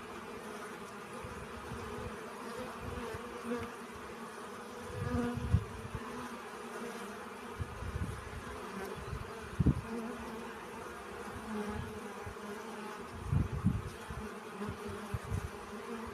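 Bees buzzing steadily as they forage for pollen, with a few short low thumps about a third of the way in, just past halfway, and again near the end.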